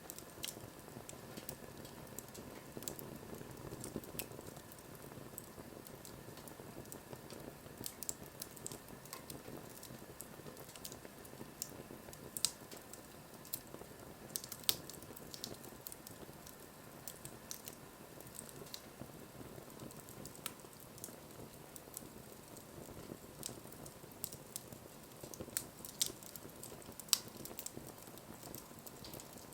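Wood bonfire burning, crackling with irregular sharp pops over a soft steady hiss.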